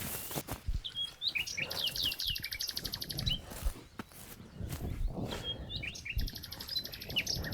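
Songbirds singing: short chirps leading into a rapid trill, heard twice, once early and again near the end. A few soft low knocks fall in between.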